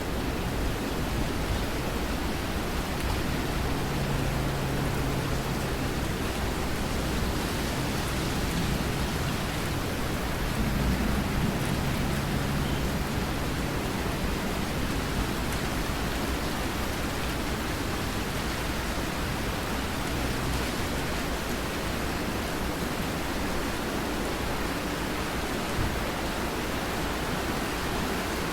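Steady rain falling, a dense even hiss, with low rumbles of distant thunder twice in the first half. A single short sharp knock comes near the end.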